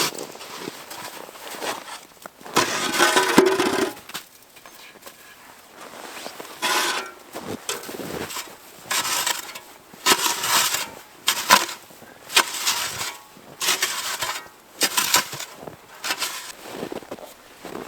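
Irregular crunching and scraping in snow, in short bursts, about one a second in the second half: boots in snow and metal tent stakes being gripped, twisted and pulled out of frozen ground.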